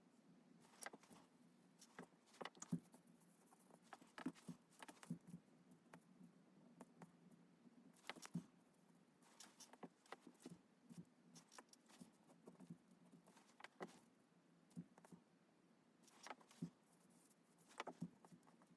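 Faint, irregular taps and clicks of a drawing pen on paper, over a low steady hum.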